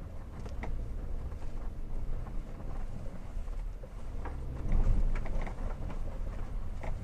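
2016 Hyundai Tucson TL driving over uneven road: a low road rumble with scattered short knocks and squeaks. A louder patch of knocks comes about five seconds in. These are the squeaks and noises over bumps that the owner is trying to trace.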